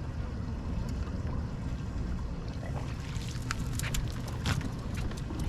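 Wind and water noise around a bass boat make a steady low rumble. From about three seconds in come a run of short sharp taps and splashes as a caught fish is handled.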